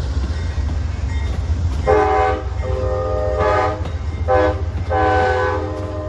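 Amtrak locomotive's multi-chime air horn sounding over the low rumble of a passing train. The blasts start about two seconds in: two long, one short, then another long.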